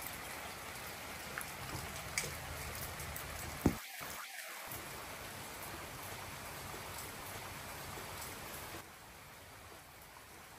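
Steady rain falling on wet paving and ground, with scattered drops ticking. A single sharp click comes a little under four seconds in, followed by a brief dropout, and the rain turns quieter near the end.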